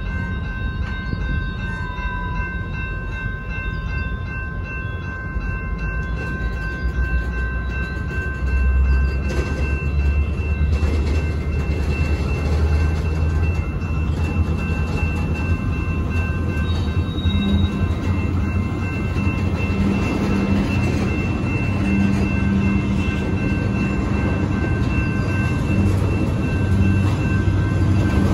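Freight train of tank cars rolling past: a steady rumble and clatter of steel wheels on the rails, growing louder about nine seconds in. Several steady high-pitched tones sound over it.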